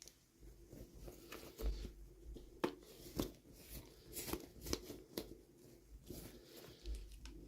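Hands unboxing miniature toys: irregular crinkling, rustling and tearing of packaging, with sharp little clicks and a couple of soft thumps.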